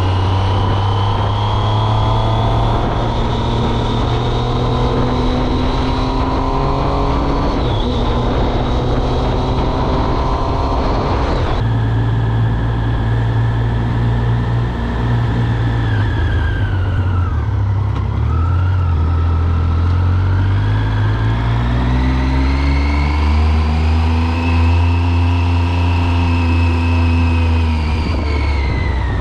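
2006 Triumph Speed Triple's 1050 cc inline-three engine and exhaust under way. Engine speed climbs with a brief dip at a gear change about 7 seconds in, and the sound changes abruptly near 12 seconds. It then falls to a low point around 18 seconds, rises again under throttle and drops near the end as the bike slows.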